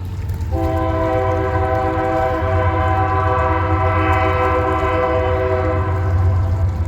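Train horn sounding one long, steady blast of several notes together, starting about half a second in and stopping shortly before the end, over a low rumble from the approaching train.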